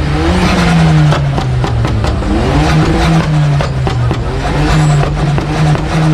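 Car engine held on a two-step launch-control rev limiter, its note rising and dipping as it bounces off the limiter, with a rapid string of loud exhaust pops and bangs.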